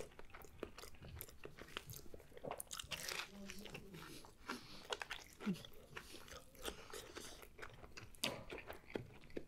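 Quiet, close-miked biting and chewing of a pita-wrapped gyro, heard as many small wet mouth clicks and soft crunches scattered throughout.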